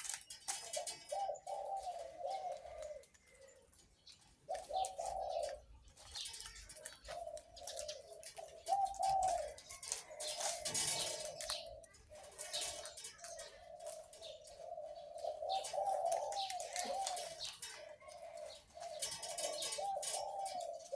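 Captive-bred dove cooing over and over in long, wavering phrases with a big voice, with brief pauses between phrases. Other small birds chirp in the background.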